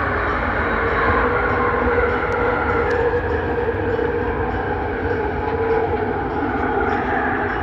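Bombardier Innovia Metro 300 light-rail train heard from inside the car while running between stations: a steady rumble of wheels on track with a constant motor tone over it and a few faint clicks.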